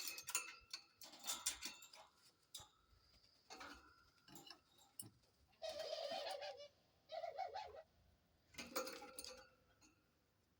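Cockatiels pecking and scrabbling at a nest box, giving faint irregular clicks and scrapes. Two short wavering bird calls come about six and seven and a half seconds in.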